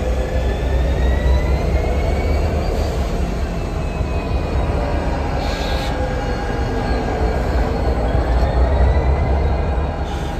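Union Pacific GP60 diesel-electric locomotive and its freight train moving slowly at close range. A steady low diesel rumble runs underneath high wheel squeal, whose pitch slowly drifts up and down.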